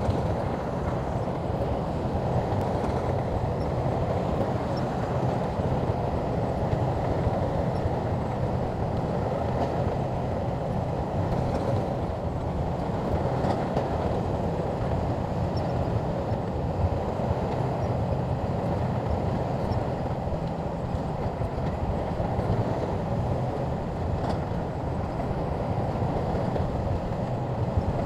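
Shantui crawler bulldozer working, its diesel engine running steadily as a low, even rumble.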